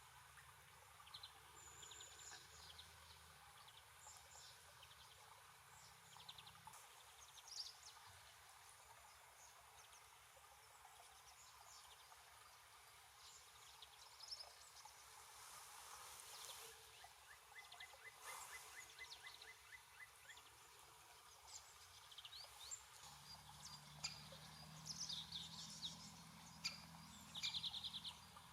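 Faint, scattered calls and chirps of small wild birds over quiet outdoor background. A quick series of ticks comes a little past the middle, and a cluster of louder chirps near the end. A faint low hum starts late on.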